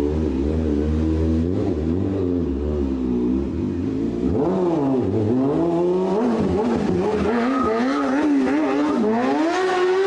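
Sport motorcycle engine revving, its pitch swinging up and down with repeated throttle blips, then climbing in one long rise near the end.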